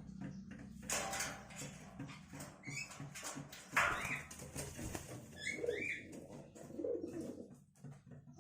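Starlings at the nest: several short chirping calls and a couple of brief bursts of rustling and wing-flapping.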